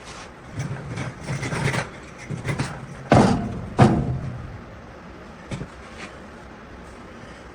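Knocks and scraping clunks from the homemade car rotisserie and its mounts being fitted. Two loud, sharp clunks come a little after three seconds and again near four seconds, then a couple of light clicks.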